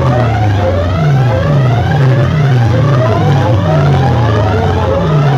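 Very loud DJ competition track played through big sound-box speakers: heavy bass notes that slide down in pitch, roughly twice a second, under a run of repeated rising siren-like sweeps.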